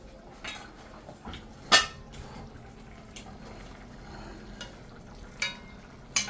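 Pots, dishes and metal utensils clinking and clattering in a kitchen: a handful of separate sharp knocks, the loudest a ringing clank a little under two seconds in.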